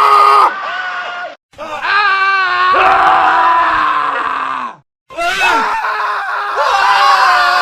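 Men screaming, one scream cut straight after another. The screams are loud and wavering, with two brief silent gaps between them, about a second and a half in and again near five seconds.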